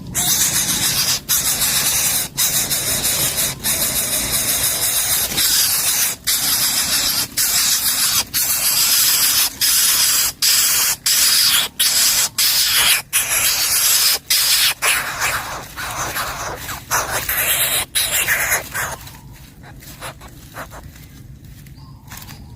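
Coucal nestling hissing loudly, in long raspy hisses broken by brief pauses about once a second, fading near the end.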